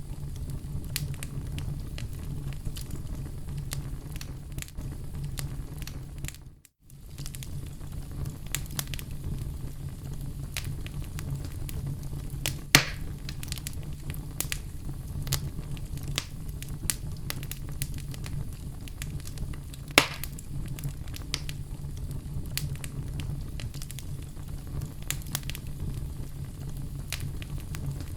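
Oak logs burning in a fireplace: a steady low rumble of flames with frequent crackles and sharp pops, two of them louder, about halfway and two-thirds of the way through. The sound drops out briefly about a quarter of the way in.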